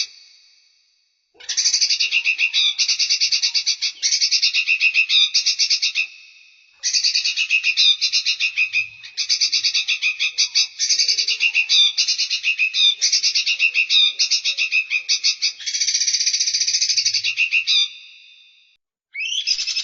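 Recorded songbird song: long runs of rapid, buzzy trilled phrases, each about a second long, delivered back to back, with brief pauses about 6 seconds in and near the end.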